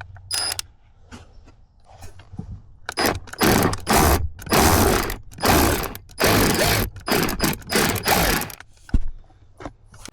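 Ratcheting hand tool working on the blower motor's mounting screws. A few light clicks come first, then from about three seconds in a run of repeated ratcheting strokes with short pauses between them.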